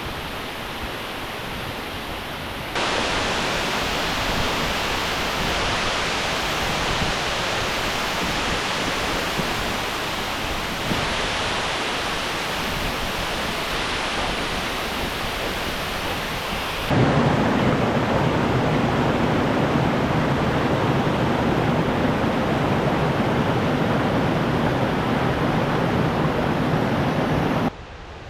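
Steady rushing of falling water, with no distinct events. The level and depth change abruptly several times; it is loudest and deepest in the last third before it cuts off sharply near the end.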